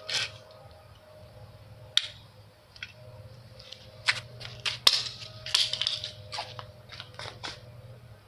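A toy race car being smashed and crushed: a series of sharp knocks and crunches as it is flattened, the loudest hit about five seconds in.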